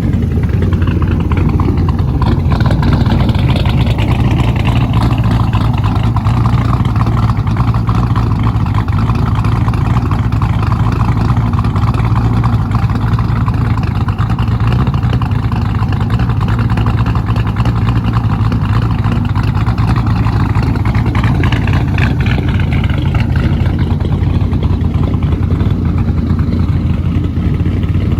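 Twin-turbo LS1 V8 engine of a 1965 Lincoln running steadily, with a brief rise and fall in pitch twice.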